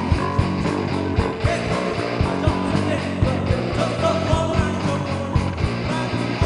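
Live band music with electric guitar and a steady drum beat.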